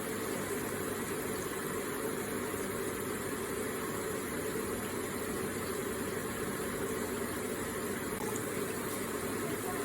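Electric water feature running, its water trickling and splashing in a steady, unbroken stream.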